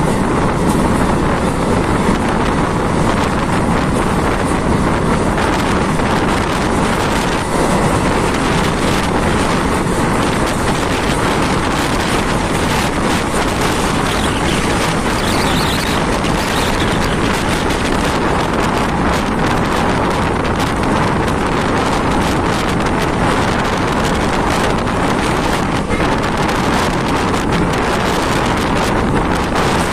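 Passenger train coach running at speed, heard from an open door: a steady rush of wind on the microphone over the rumble of the wheels on the rails, with a fine, fast clatter throughout.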